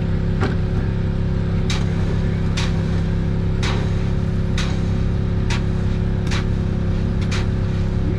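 Fishing boat's engine running steadily at a constant speed, with a short splash of water against the hull about once a second as the boat runs through the sea.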